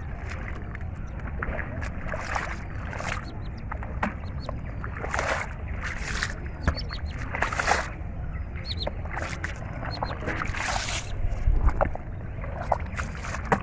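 Hands splashing and sloshing in shallow river water: irregular short splashes, a dozen or more, over a steady low rumble.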